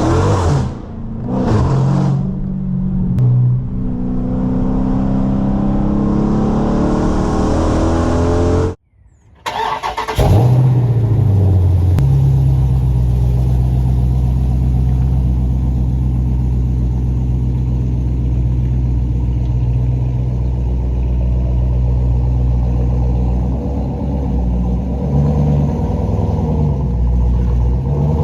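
Dodge Charger Scat Pack's 392 HEMI V8 breathing through catless midpipes and a race exhaust: a few quick revs, then a long pull with the pitch rising as it accelerates. After a brief cutout about nine seconds in, there is one more blip, then a steady, even drone.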